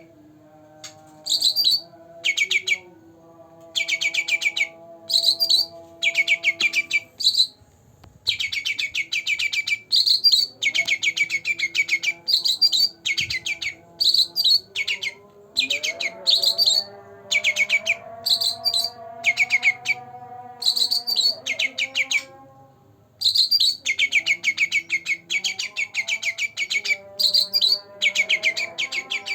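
Caged songbird singing in repeated bursts of fast, high-pitched rattling trills, each under a second long with short pauses between. Fainter steady lower tones run underneath.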